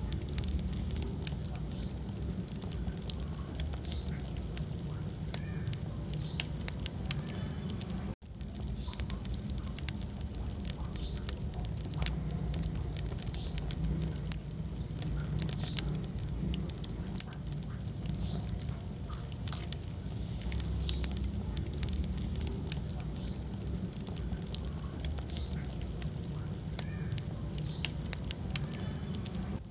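Wood fire in a fireplace crackling and popping, with many small sharp snaps over a steady low rumble of the flames. The sound drops out for a split second about eight seconds in.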